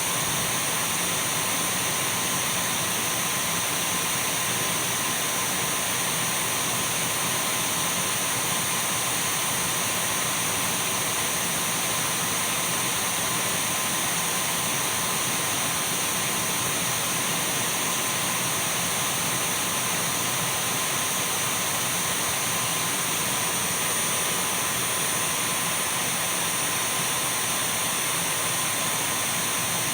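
Dyson V12 cordless stick vacuum running steadily: an even rushing whoosh of air with a thin, steady motor whine.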